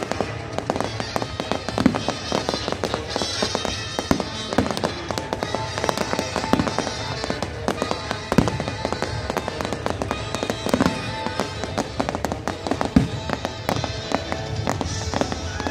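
Fireworks display: a rapid, dense run of sharp bangs and crackles from bursting shells, a few louder bangs standing out, with music playing under it.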